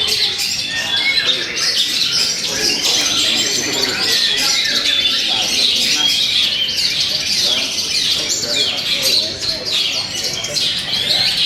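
Many caged songbirds singing at once in a dense, unbroken chorus of rapid chirps, trills and quick falling whistles, over a murmur of crowd voices.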